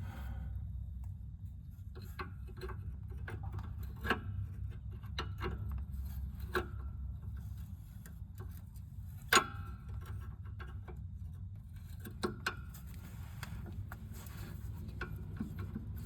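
Scattered light clicks and knocks of a wrench and other hand tools against metal while fitting a line wrench to a brake line fitting, with a sharper knock about nine seconds in and two close together a few seconds later, over a low steady hum.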